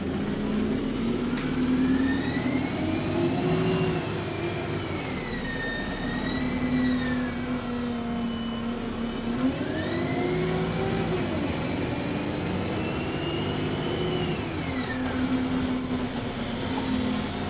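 Alexander Dennis Enviro400 MMC double-decker bus accelerating twice with idling between, the engine note rising and falling each time under a high turbocharger whine that sweeps up and down with it.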